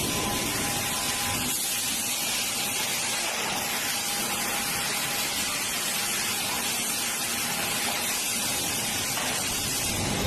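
Steady, even rushing hiss at a constant level, with two faint high steady tones running through it.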